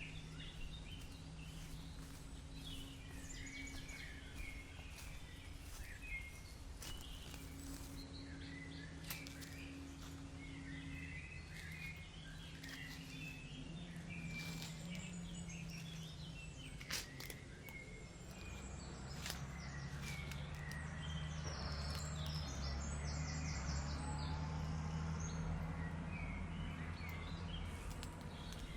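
Wild birds chirping and calling repeatedly, with a few sharp clicks or snaps scattered through. A low steady rumble grows louder in the second half.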